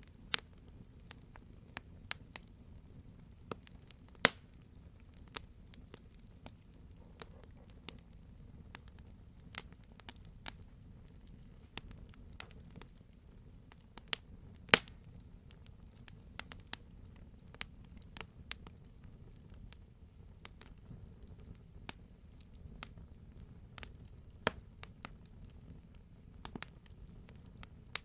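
Wood campfire crackling: irregular sharp pops and snaps, a few much louder than the rest, over a faint steady low rumble.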